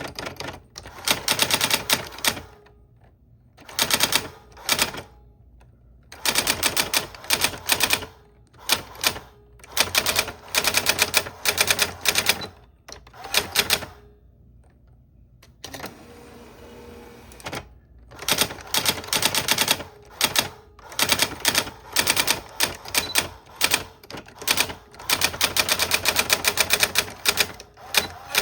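Typewriter keys clacking in quick runs of strokes, with short pauses between runs and a longer pause near the middle.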